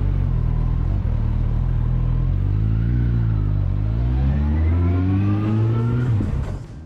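Vehicle engine under load, its pitch rising briefly, easing off about three seconds in, then climbing steadily as it accelerates, over a steady low rumble; the sound fades out near the end.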